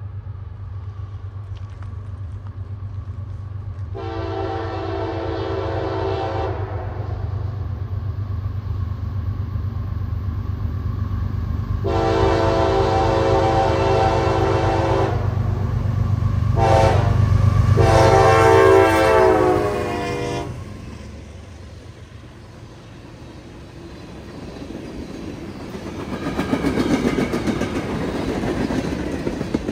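CSX freight train's diesel locomotives approaching with a steady low rumble and sounding a multi-note horn in the long, long, short, long pattern used for a grade crossing. The rumble peaks as the engines pass. After that, loaded freight cars roll by with wheel rumble and clatter that swells near the end.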